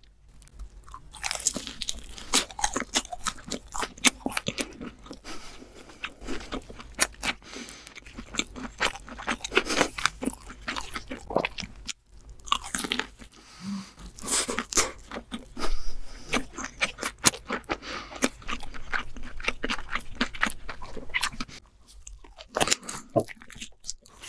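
Close-miked crunching and chewing of king crab leg meat coated in crushed hot Cheetos: many rapid, crisp crunches from bite after bite. There is a short pause about halfway and another near the end.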